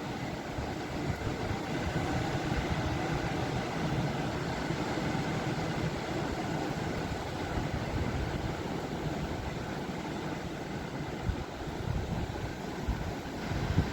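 Sea surf washing in: a steady low rush of waves, with wind buffeting the microphone toward the end.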